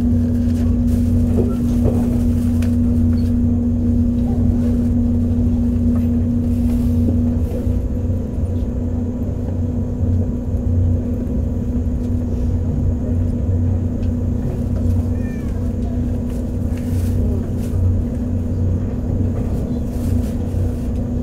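Cabin noise of a 485-series electric train running along the line: a steady low rumble from the wheels and track, with a steady hum that stops about a third of the way through. A few light knocks sound over the rumble.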